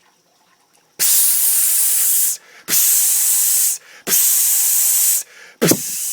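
Four loud hissing blasts of compressed air from an air compressor, each about a second long with short pauses between them, let off to mimic a hiss.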